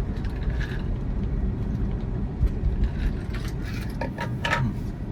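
Tyre and road noise heard inside the cabin of a moving electric car (Tesla Model 3), a steady low rumble. A few light clicks or rattles come near the end.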